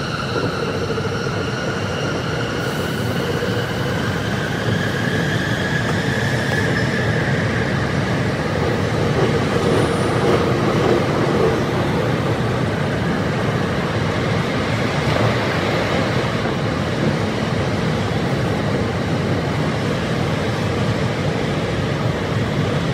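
Tsukuba Express electric train running through a tunnel, heard from the front of the car: a steady, dense rumble of wheels and running noise. Over it, the motors' whine rises in pitch for the first several seconds as the train gathers speed, then fades into the rumble.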